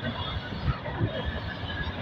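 Empty flat wagons of a freight train rolling past close by: steel wheels rumbling and clattering on the rails, with frequent irregular low knocks.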